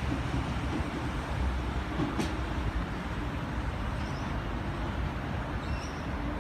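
Steady low rumble of vehicles, with a single sharp click about two seconds in.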